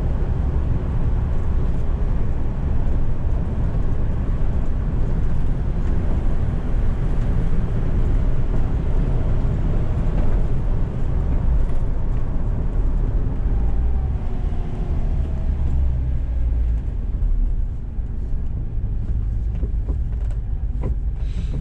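In-cab sound of a Toyota 2Y 1.8-litre four-cylinder gas engine running under way, with road rumble. Its pitch falls about two-thirds of the way through, and the sound gets quieter near the end as the truck slows toward idle.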